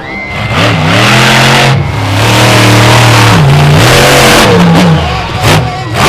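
Monster truck engine revving hard, blipping up and down several times and held at high revs for about a second and a half in the middle.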